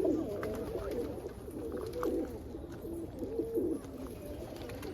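Several Birmingham roller pigeons cooing at once, their low coos overlapping and wavering in pitch.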